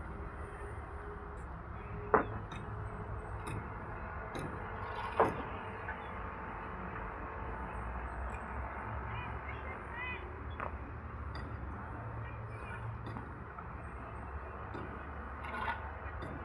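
Building-site background: a steady low rumble with two sharp knocks, about two and five seconds in, and a few fainter clicks.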